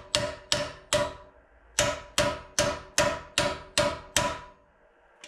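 Hammer blows on the steel sub rail of a 1932 Ford three-window coupe, straightening the metal, each one ringing briefly. About five quick strikes, a short pause, then about seven more at a steady pace of two or three a second.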